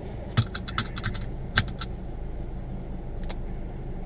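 Chevy Sonic's engine running steadily at low speed, with a quick run of sharp rattles and knocks in the first two seconds and one more about three seconds in, as the car jolts over a rough dirt trail.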